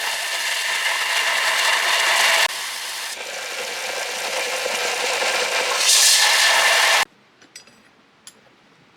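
Steady abrasive scraping and rubbing from hand work on the dagger, with an abrupt jump in the sound about two and a half seconds in. About seven seconds in it cuts off suddenly, leaving low background noise with a few faint clicks.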